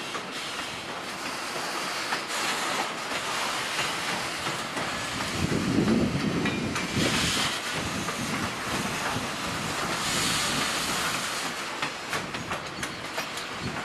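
Conrail freight train rolling past, its steel wheels clacking over rail joints amid a steady rush of noise, with a louder swell about six seconds in.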